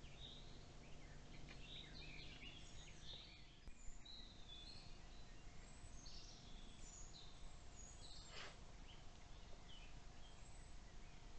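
Faint woodland birdsong, short scattered chirps and calls, over a steady low background hiss, with one brief click a little under four seconds in.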